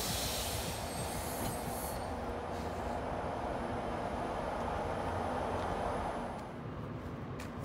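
New Jersey Transit bilevel passenger coaches rolling past close by, a steady rumble of wheels on rail with a faint high wheel squeal; the rolling noise drops off about six seconds in.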